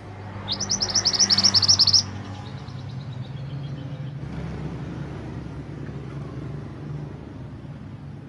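A small songbird gives a fast, loud trill of rapid high notes lasting about a second and a half, followed by a few fainter notes stepping down in pitch. A steady low rumble runs underneath.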